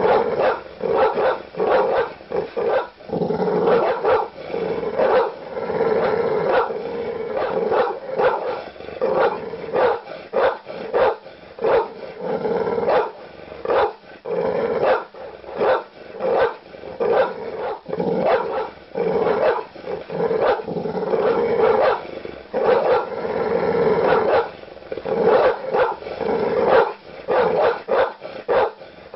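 Large dog barking aggressively, a continuous run of deep barks at about two a second.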